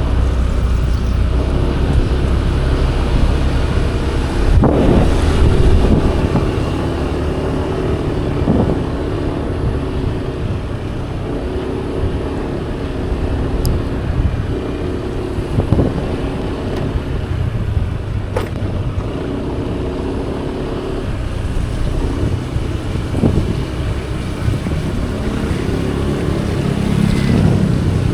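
Motorcycle engine running while riding along, its note rising and easing, with wind rumbling on the microphone.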